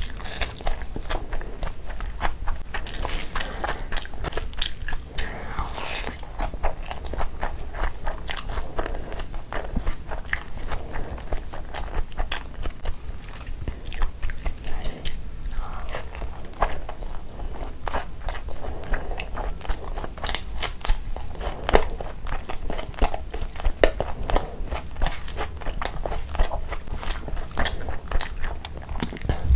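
Close-miked eating sounds: chewing and biting mouthfuls of chicken curry and rice, with many irregular wet mouth clicks and smacks.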